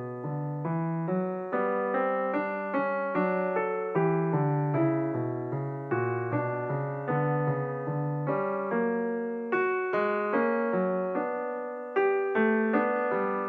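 Background piano music: a slow, gentle melody of single struck notes over held chords.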